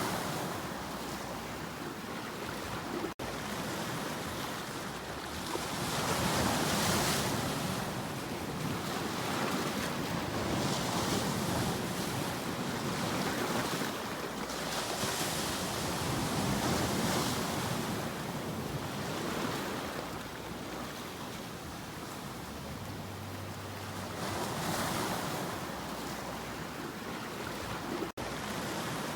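Ocean surf: waves breaking and washing ashore, the rush of water swelling and easing in slow surges every few seconds. Two very brief dropouts cut the sound, a few seconds in and near the end.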